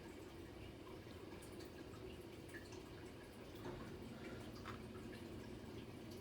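Faint scattered light clicks and taps of plastic toy parts being handled, over a steady low hum in a small room.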